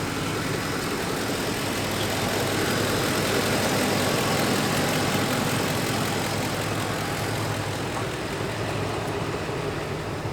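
Ford F-150 pickup's engine idling steadily, a low even hum. A broader rushing noise swells over the middle and eases off toward the end.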